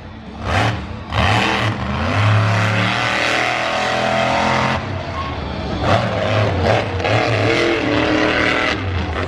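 Supercharged monster truck engine blipped in two short revs, then held at high revs for several seconds as the truck runs, the pitch rising and falling.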